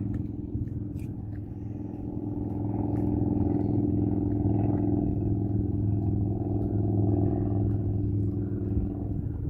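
An engine running steadily at constant speed, a low even drone that grows slightly louder over the first few seconds and then holds.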